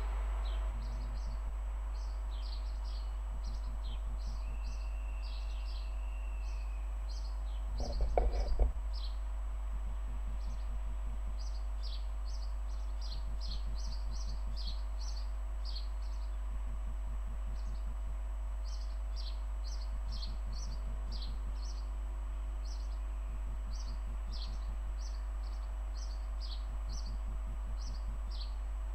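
Small birds chirping over and over in short, high chirps above a steady low hum of background noise, with a brief thump about eight seconds in.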